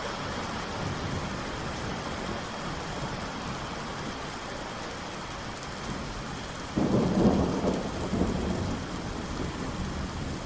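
Steady rain falling, with a sudden loud thunderclap about seven seconds in that rumbles away over the next couple of seconds.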